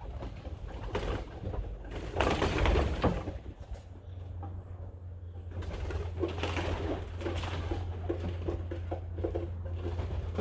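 Racing pigeons cooing in short repeated phrases, with a loud rustling burst about two seconds in.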